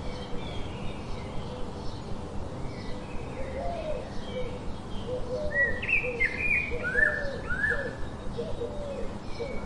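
Several birds chirping and calling, short repeated notes with some sweeping calls that become busier about four seconds in.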